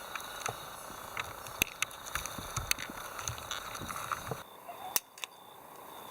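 Irregular light clicks and taps over a steady hiss; the background drops away abruptly about four and a half seconds in.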